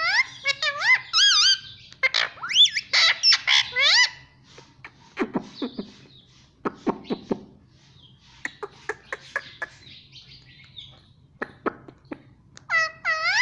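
Pet parrot calling: a run of loud whistled notes sweeping up and down in pitch for the first few seconds, then a string of softer clicks and short chirps, and another burst of sweeping whistles near the end.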